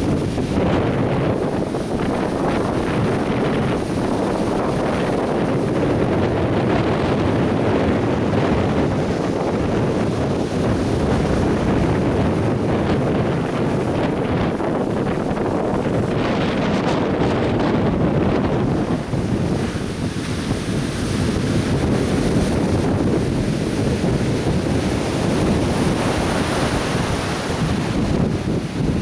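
Atlantic Ocean surf breaking and washing onto the beach in a continuous roar of waves, with wind buffeting the microphone.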